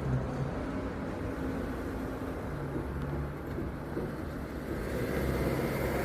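A motor vehicle's engine running slowly, a low steady rumble.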